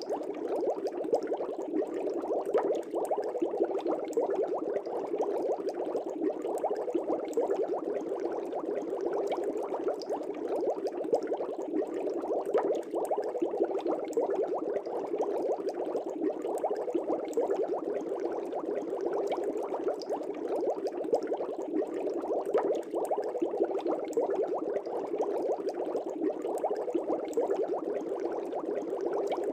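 Fish tank air bubbles rising and bubbling steadily in the water, a dense continuous burble with many small pops.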